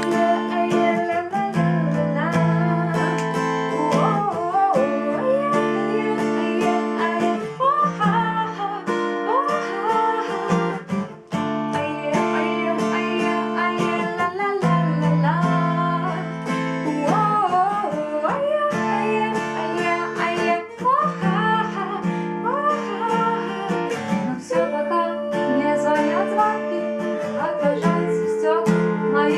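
A song: acoustic guitar strummed under a singing voice carrying a gliding melody line.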